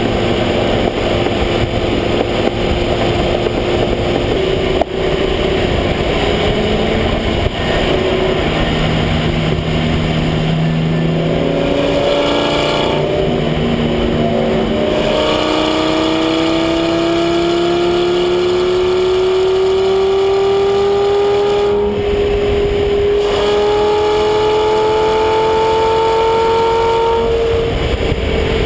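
Lamborghini Gallardo Superleggera's V10 engine and exhaust heard from a camera mounted at the rear of the car while driving, running steadily at first and then climbing slowly in pitch through the second half as the car accelerates, with a short break about two-thirds of the way through.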